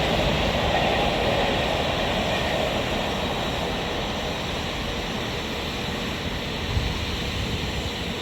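Freight train hauled by a Class 66 diesel running through the station at speed, its wagons rolling past as a steady rushing rumble that slowly fades.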